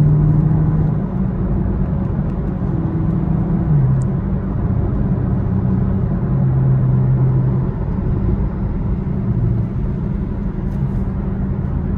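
Chevrolet Camaro SS's V8 running at low speed in slow traffic, heard from inside the cabin over a steady low rumble of tyre noise on a wet road. The engine note shifts in pitch a few times as the car eases along.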